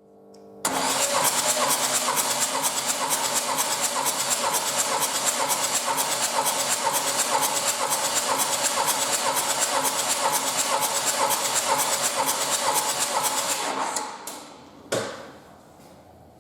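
Renault F9Q 1.9 dCi diesel engine being turned over steadily on the starter motor with an even pulsing beat, as for a compression test. It starts suddenly, runs for about thirteen seconds, then winds down near the end with a clunk and a falling whine.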